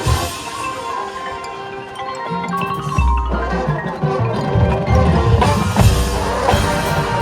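Marching band playing, with mallet percussion ringing over held chords, then a heavy low hit about three seconds in and steady drum beats building toward the end.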